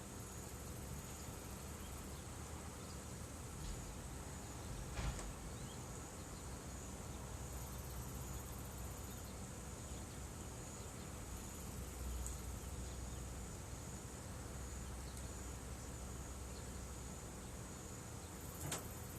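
Steady high trilling of insects in an evening chorus, with a couple of sharp pops of a crackling bonfire, one about five seconds in and one near the end.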